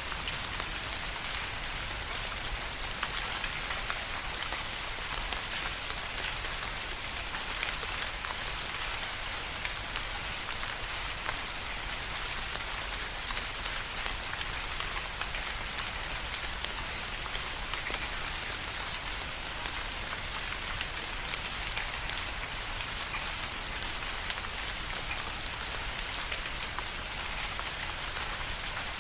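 Steady rain falling on a surface, a constant hiss dotted with many individual drop ticks.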